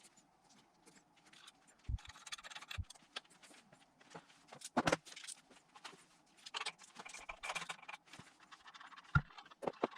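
Light metal clinks, scrapes and rattles of engine parts and hand tools being handled while accessory drive belts and their bolts are fitted, with a few sharper knocks spread through.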